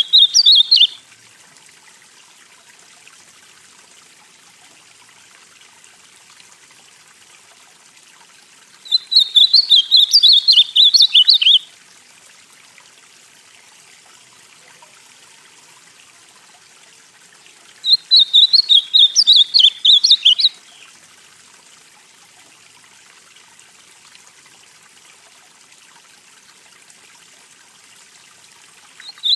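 Ultramarine grosbeak (azulão, northeastern Brazilian form) singing: a phrase ends just at the start, then two song phrases of about three seconds each, a quick run of high notes about nine seconds apart, and another begins at the very end. A faint steady hiss fills the gaps between phrases.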